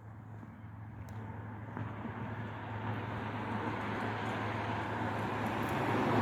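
A car approaching along the road, its engine hum steady and its tyre noise growing steadily louder.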